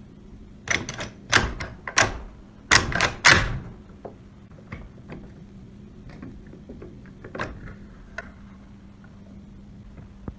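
A quick run of sharp knocks and clatters, about six loud ones in the first few seconds, then lighter scattered clicks, over a steady low hum.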